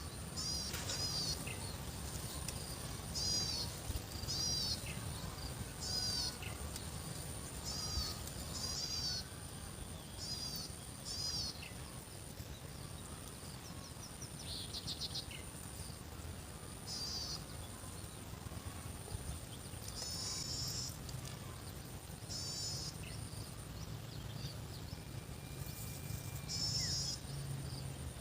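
Outdoor rural ambience: a bird calling over and over in short high chirps, often in quick pairs, coming less often after about twelve seconds. Under it runs a steady high insect drone and a low background rumble.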